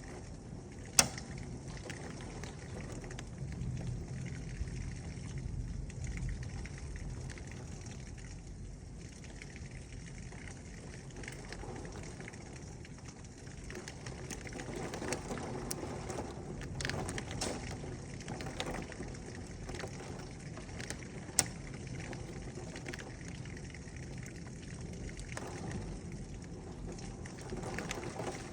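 Heavy rain and hail pelting the house in a severe thunderstorm: a steady hiss of rain, with a few sharp hailstone strikes, two of them loud, about a second in and about three quarters of the way through.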